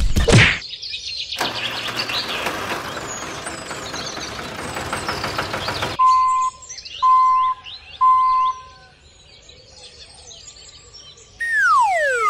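Birds chirping in the background, with a brief loud burst of noise at the start and a steady hiss for about four seconds. Then come three short beeps about a second apart, and near the end a falling whistle-like tone.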